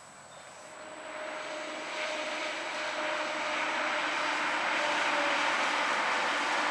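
ScotRail passenger train approaching and passing: a rushing noise of wheels and air that builds from about a second in and stays loud, with a steady whine over it that drops slightly in pitch about five seconds in.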